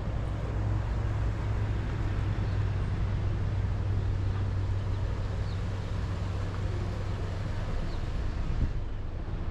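Outdoor ambience dominated by a steady low motor hum over a constant noisy rumble, with a few faint short high chirps.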